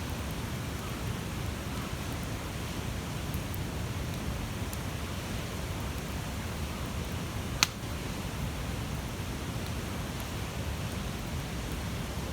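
Large wood bonfire burning with a steady rushing hiss and faint crackles, and one sharp pop from the burning wood a little after halfway.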